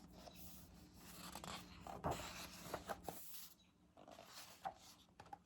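Faint rustling and scraping of paper as a picture book's pages are handled and turned, with a few soft clicks.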